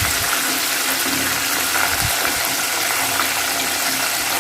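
Coated chicken pieces frying in hot oil in a pan: a steady sizzle, with a couple of dull knocks, one at the start and one about two seconds in.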